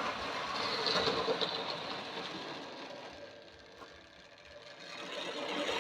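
Tri-ang Princess Elizabeth model locomotive running round the track, a small electric motor whirring with wheels rattling on the rails. It swells as it passes close, fades away about three seconds in, then grows louder again as it comes back round near the end.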